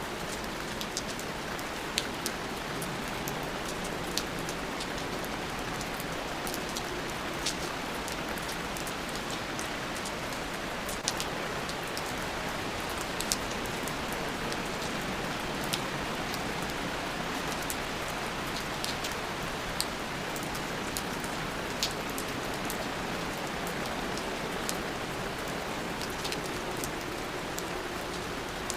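Steady rain, falling as an even hiss with scattered close drops ticking sharply at irregular moments.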